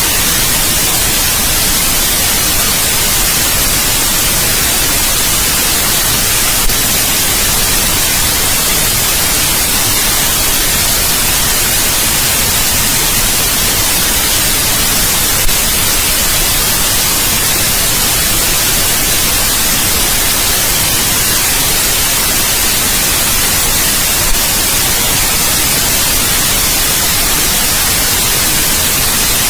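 Steady white noise: an even, unchanging hiss, strongest in the treble, with a faint click about every nine seconds.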